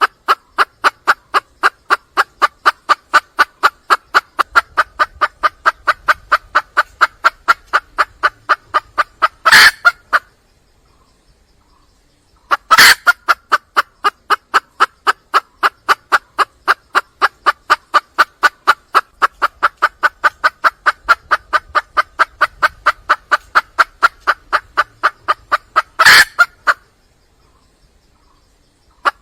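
Hen red junglefowl (wild jungle hen) calling for a cock: long runs of quick, even clucks, about five a second, each run ending in a louder squawk. There are two such runs, with a pause of about two seconds between them, and the call starts again near the end.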